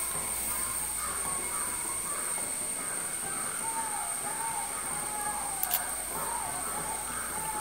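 Birds calling over and over in the background, short arching calls overlapping one another, over a steady high-pitched tone. Two sharp clicks come a little past halfway.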